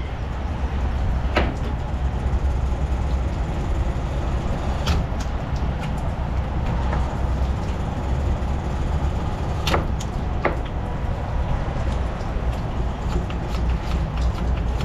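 Steady low diesel-engine rumble with a few sharp clicks or knocks scattered through it.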